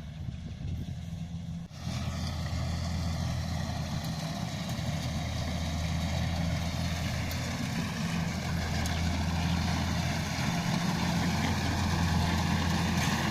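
Kubota DC70 rice combine harvester's diesel engine running steadily. About two seconds in, the sound suddenly fills out with a hiss and a faint whine that drifts slightly lower. It grows gradually louder toward the end.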